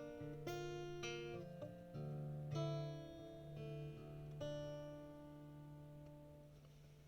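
Acoustic guitar picking a few chords of a song's ending. The last chord, struck about four and a half seconds in, rings out and fades away.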